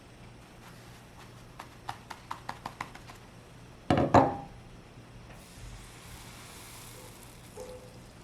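Kitchen utensil sounds: a quick run of light taps, then two loud knocks, followed by a soft hiss.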